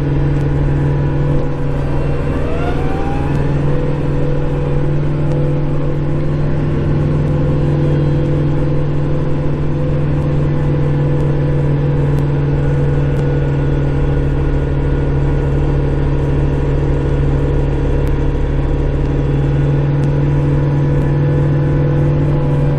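Kubota Grand L5740 tractor's four-cylinder diesel engine running steadily under plowing load, heard from inside the closed cab as a constant low hum.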